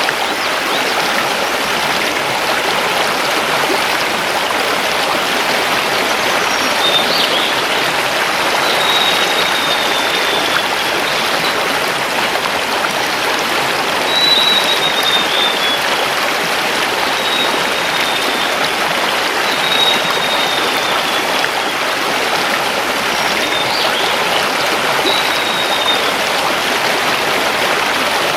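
A mountain river running over stones: a steady, even rush of water. A forest bird calls over it about seven times with thin, high whistles that fall slightly in pitch.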